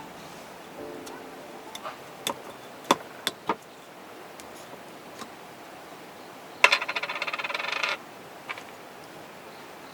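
Several sharp metallic clinks, then a rapid metallic rattle lasting about a second and a half.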